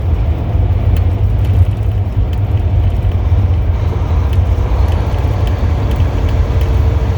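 Heavy-duty truck driving in strong, gusting crosswinds, heard from inside the cab: a loud, steady low rumble of engine, road and wind buffeting. A faint steady hum joins about four seconds in.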